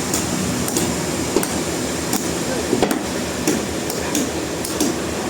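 Steady sawmill machine noise with a sharp knock repeating evenly, about once every 0.7 seconds.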